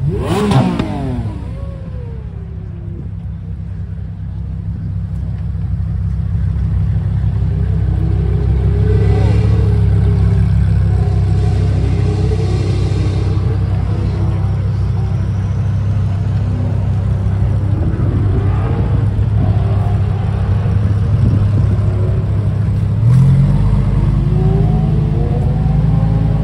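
Car engines running, with revs rising and falling over a steady low engine note that gets deeper and louder near the end.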